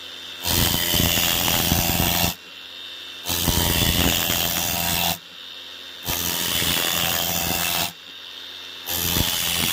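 A router milling Penoplex extruded polystyrene foam board in repeated cutting passes. Each pass lasts about two seconds and is followed by a roughly one-second quieter pause, four passes in all.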